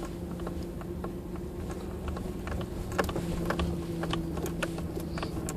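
Steady low hum of a vehicle, with scattered light clicks and creaks at irregular intervals.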